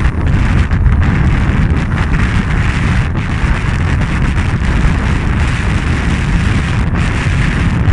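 Strong wind buffeting the microphone, a loud, steady low rumble, over water rushing along a sailing yacht's hull.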